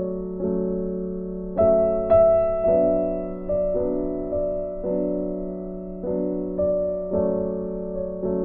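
Background piano music: soft notes struck one after another, each fading before the next.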